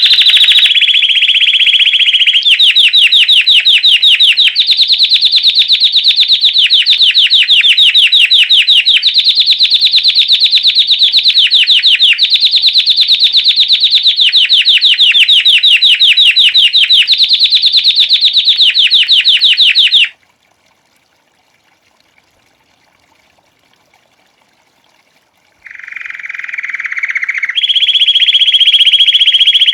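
Domestic canary (Belgian type) singing the classic bell song: long trilled phrases of very fast repeated high notes. The song breaks off about two-thirds of the way through, and after a few seconds of silence it starts again.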